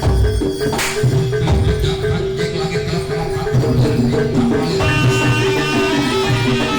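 Live jaranan gamelan music: drums beating a fast, steady pattern under repeating metallophone notes. A higher melodic line comes in about five seconds in.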